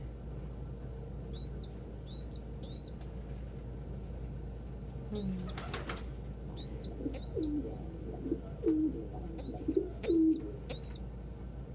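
Pigeons in a loft: short, high peeps repeating, a brief flurry of wing flaps about five seconds in, then several low pigeon coos in the second half.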